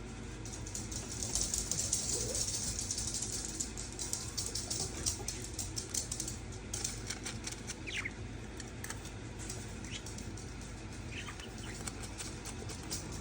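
Budgies making a rapid, scratchy high-pitched chatter, loudest in the first few seconds, with a few short chirps later.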